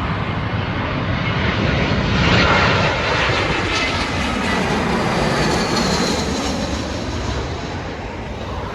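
Jet airliner coming in to land, passing close overhead: engine noise builds to a peak about two to three seconds in, then slowly fades, with a faint high whine that falls in pitch as it goes by.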